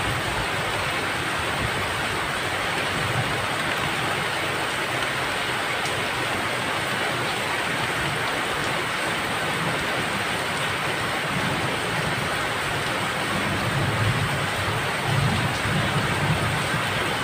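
Steady, heavy rain falling, an even hiss with no let-up. Low rumbles swell up briefly near the end.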